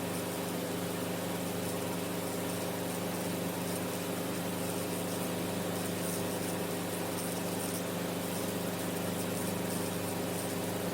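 Enstrom F28F helicopter's piston engine and rotor system running steadily in flight, heard from inside the cockpit as an even, unchanging drone made of several steady low tones.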